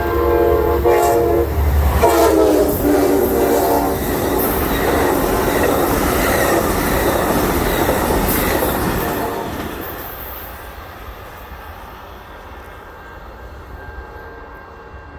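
Amtrak passenger train passing at speed: the locomotive horn blows, its pitch drops about two seconds in as the engine goes by, then the wheels rumble and clatter over the rails along the passing cars, fading away after about ten seconds.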